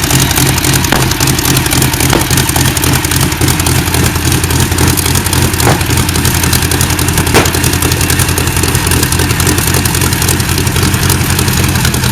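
A big engine running steadily at an even speed, with a few sharp clicks over it, the strongest about seven seconds in.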